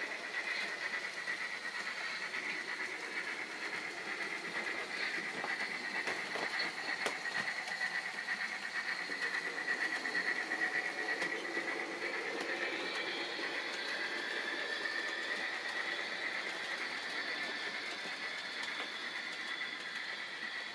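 Model locomotive of the Bavarian Gt 2×4/4 running along the track: a steady high motor whine that drifts slightly in pitch, over light wheel and rail rattle.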